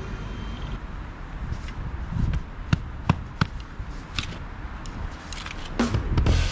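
Excavator engine running with a low rumble, and a string of sharp knocks and clatters from about a second and a half in. A faint high pulsing beep stops just under a second in.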